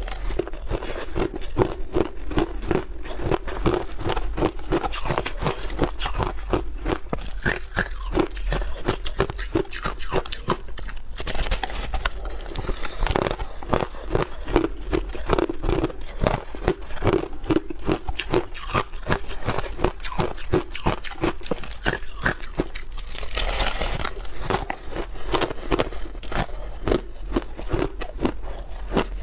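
A person biting and chewing hard block ice close to the microphone: continuous crunching, many sharp cracks a second, with no pause.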